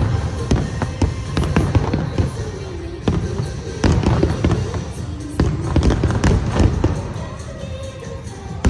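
Aerial fireworks bursting in rapid succession, many overlapping bangs and crackles, in volleys that swell about four seconds in and again near the end.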